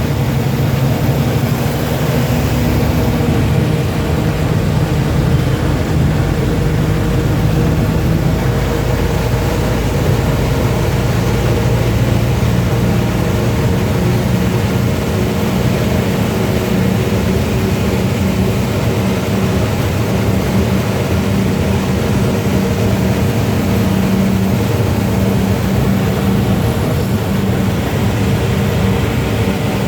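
Road vehicle engine running steadily, a low hum whose pitch drifts slowly, with road noise.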